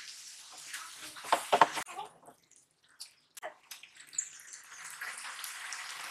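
Masala bubbling and sizzling in a frying pan, with a few sharp knocks about a second and a half in. After a brief near-silent gap, raw mutton liver pieces sizzle steadily in the masala.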